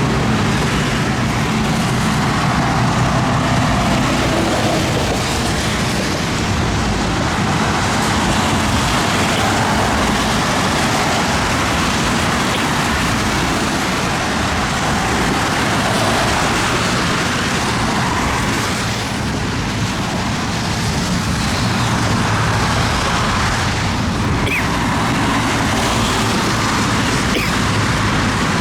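Steady rush of thunderstorm wind and rain, with no break in it.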